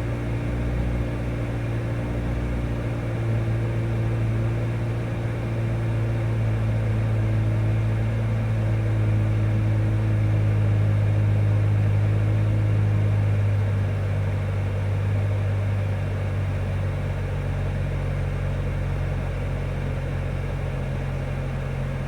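Car engine idling after a cold start on E85 ethanol fuel, a steady low hum. The idle note shifts slightly about two-thirds of the way through.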